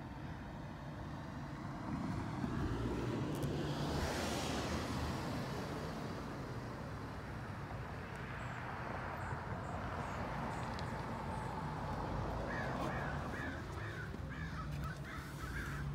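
A bird calling in a quick series of about eight short calls near the end, over a steady low rumble. A rushing noise swells and fades a few seconds in.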